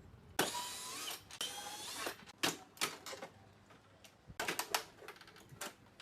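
Plastic housing of an AUX air conditioner being pried open by hand. First comes a squeaky plastic scraping for about a second and a half, then a series of sharp clicks and snaps as the clips let go, with a quick run of them near the end.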